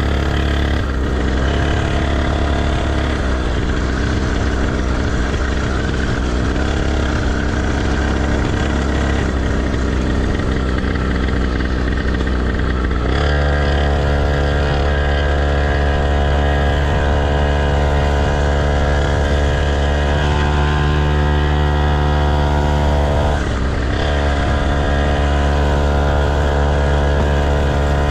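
Dirt bike engines running. From about thirteen seconds in, one engine holds a steady note, dropping briefly once a few seconds before the end.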